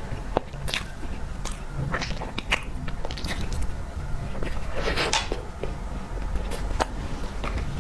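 Close-miked eating of tiger skin roll cake: chewing with scattered sharp mouth clicks and smacks, and a longer noisy stretch about five seconds in.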